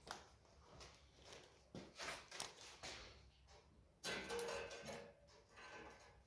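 Faint handling noises: scattered short scrapes and knocks, with a louder scrape carrying a slight squeaky tone about four seconds in.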